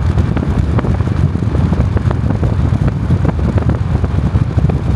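Loud wind buffeting on the microphone, crackling over a steady low rumble.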